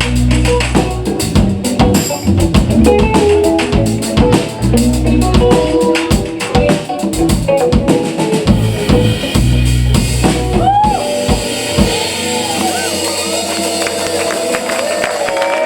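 A live band's instrumental ending, with the drum kit playing busy fills over bass and keys, stops about eleven seconds in. Audience applause and cheering with a few whoops follow.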